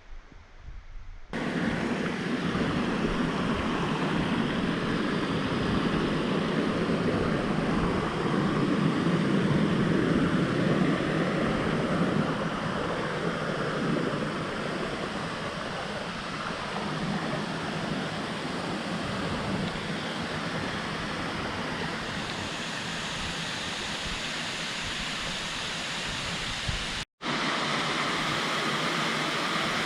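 Waterfall rushing: a steady, loud rush of falling water that starts abruptly just over a second in, with a brief break near the end.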